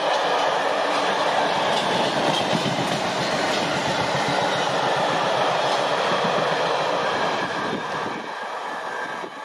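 A train passing on the main line, its wheels clattering on the rails, the noise falling away about eight seconds in.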